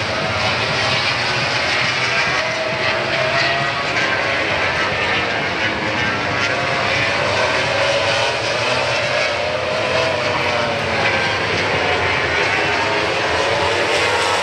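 Racing motorcycles lapping the circuit: a continuous loud engine noise whose pitch rises and falls as the bikes pass.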